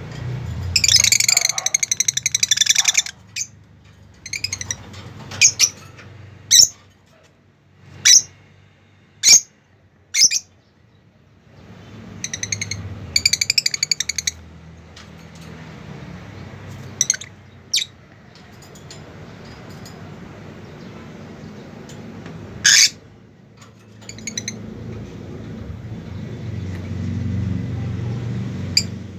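Pet birds calling: two bursts of rapid, trilling chatter and a string of short, sharp single calls, over a steady low rumble.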